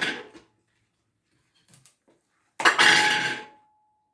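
Kitchenware being handled on a counter: a short clatter at the start, a few faint ticks, then, about two and a half seconds in, a louder clatter of dishes or utensils that leaves one ringing tone for about a second.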